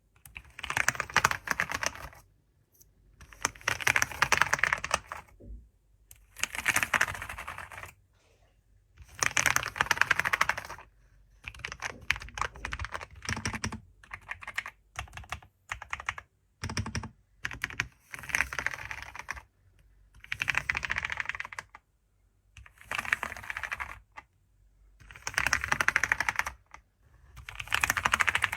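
Computer keyboard being typed on: quick runs of key clicks lasting a second or two each, with short pauses between the runs.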